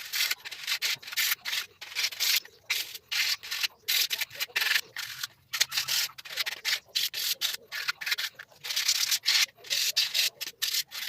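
Hand sanding a small piece of pallet wood with 100-grit sandpaper: quick back-and-forth rasping strokes, about two or three a second, with brief pauses.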